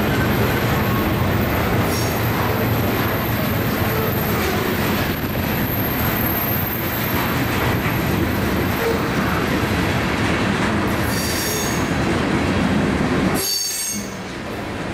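Freight cars rolling past: a steady rumble of steel wheels on the rails, with short high-pitched wheel squeals near the end.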